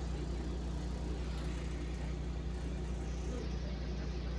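Inside a LiAZ city bus: the steady low drone of the bus's engine and running gear, with an even rumble of road and cabin noise.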